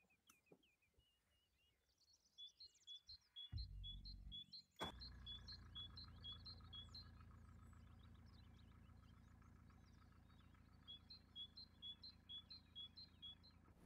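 Faint bird calls: a small bird repeating a short high chirp about twice a second, in two runs, starting about two seconds in. A low steady hum sits underneath from about five seconds in.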